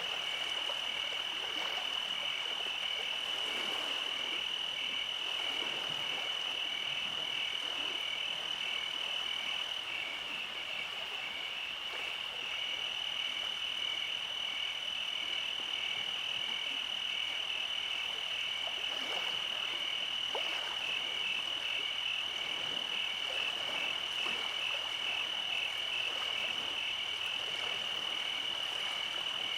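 Summer night chorus of calling animals: a steady high trill with a faster pulsing call just below it, and a thinner, higher whine that pauses for a couple of seconds about ten seconds in.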